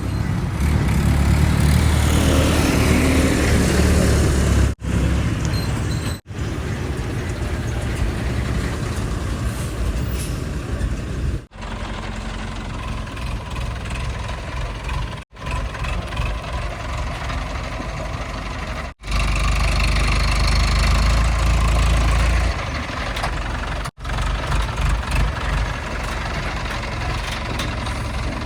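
Heavy diesel engines of earth-moving and haulage vehicles running under load, in several short clips cut together. The sound drops out briefly at each cut, and a deep low rumble is heaviest about two-thirds through.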